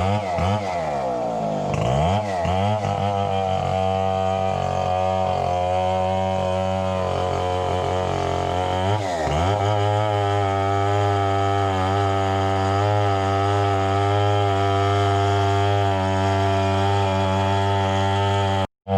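Two-stroke chainsaw running steadily, as when cutting coconut trunk into lumber. Its engine pitch dips and recovers in the first two seconds and again about nine seconds in.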